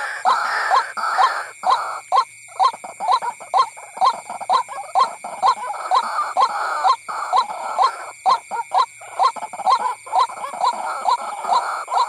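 White-breasted waterhen calling: a rapid, even series of short notes, each rising in pitch, about three a second with a few brief breaks.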